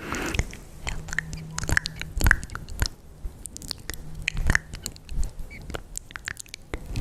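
ASMR mouth sounds close to the microphone: irregular wet clicks and smacks of the tongue and lips.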